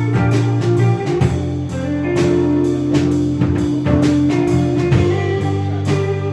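Live alternative pop/rock band playing, with guitar over a steady drum-kit beat.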